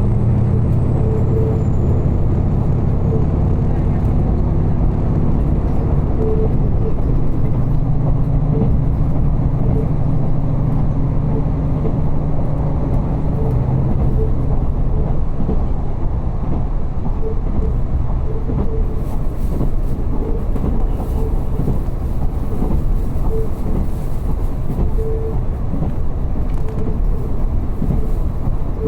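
Diesel railcar heard from inside the cabin while running: a steady low engine drone with wheel-and-track rumble. The engine's drone eases about halfway through, leaving mostly track rumble.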